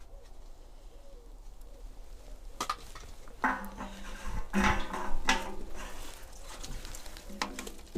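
A bird cooing, with a few sharp knocks in between.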